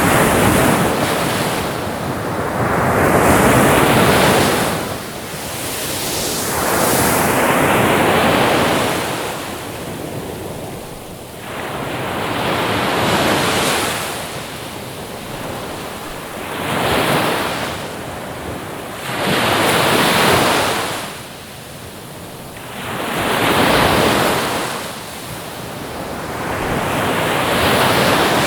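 Ocean waves breaking and washing on a shore, each surge swelling and fading every two to four seconds.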